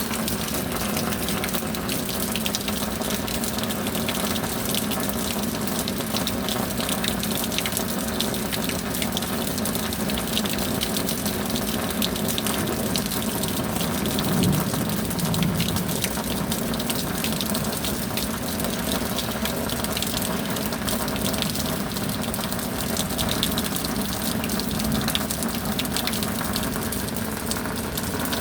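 Steady rain: a dense patter of drops over a continuous rushing wash of water, swelling slightly about halfway through.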